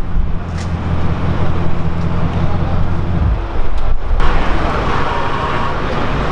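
Supercar engine with a deep, steady low rumble. About four seconds in, the sound changes abruptly to a broader, higher-pitched engine and street noise.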